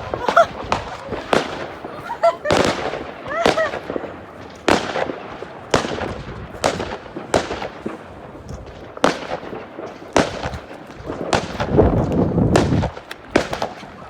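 New Year's fireworks going off: about a dozen sharp bangs at irregular intervals, with short whistling glides in the first few seconds and a dense burst of crackling near the end.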